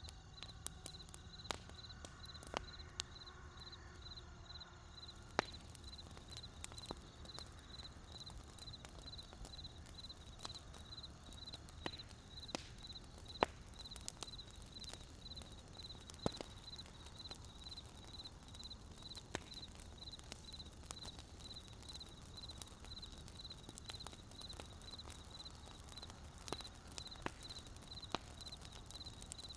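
Wood fire crackling, with irregular sharp pops over a low steady rumble. A high, evenly pulsing chirp runs underneath.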